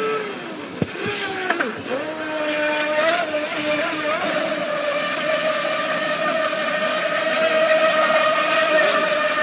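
Small RC speedboat's motor whining, its pitch sliding up and down as the throttle changes during the first couple of seconds. It then settles into a steady high-pitched whine running at speed.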